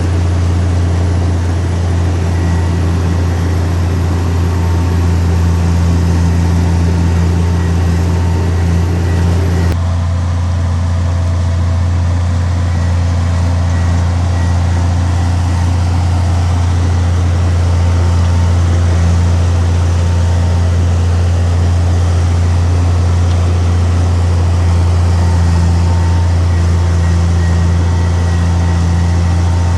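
Heavy diesel engine of earth-moving machinery running steadily with a deep, constant drone; the sound changes slightly about ten seconds in.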